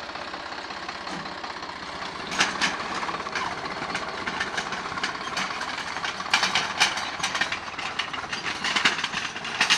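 Swaraj 744 FE tractor's diesel engine running steadily, with the tiller in tow, and from about two seconds in a string of short sharp clanks and rattles over the engine.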